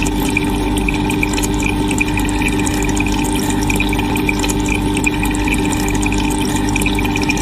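Steady rush of water, as if water is being poured or pumped, with a constant low hum under it.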